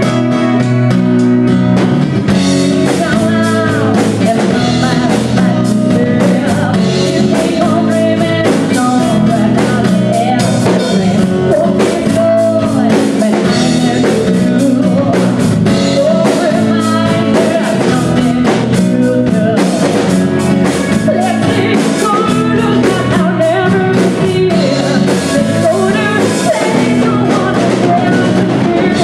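Rock band playing live with a singer: drum kit, guitar and lead vocals.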